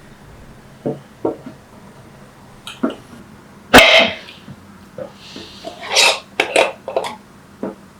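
Kitchenware being handled: a few light knocks, then a loud ringing clink just under four seconds in, followed by a quick cluster of clinks and knocks.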